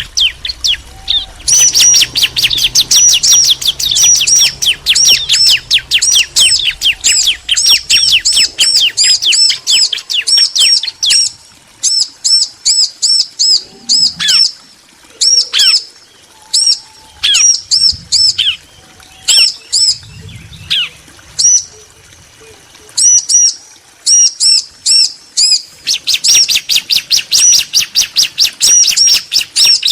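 Bar-winged prinias (ciblek), a female and a male, calling back and forth in fast runs of sharp, high chirps. The chirping comes thick and continuous for the first third and again near the end, with looser, scattered chirps in between.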